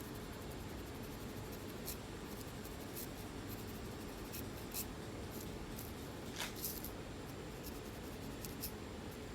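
Fingernails scratching and picking at a dry, flaky scalp, making short irregular scratchy crackles over a steady low hiss.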